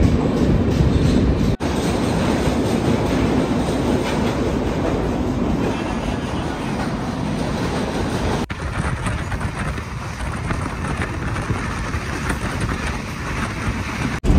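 Indian Railways passenger train running at speed, heard from an open coach doorway: a steady rush of wheel and rail noise, broken off for an instant three times.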